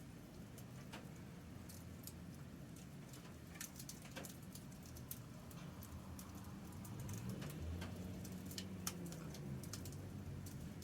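Campfire crackling quietly: irregular sharp pops and snaps scattered throughout, over a low rumble, with a faint low wavering drone coming in during the second half.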